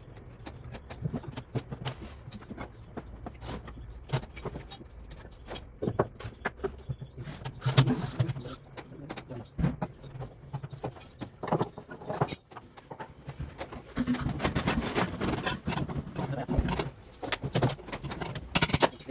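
Irregular metallic clinking and knocking, many sharp clicks over a low steady hum, busier in the last few seconds, from work on a washing machine.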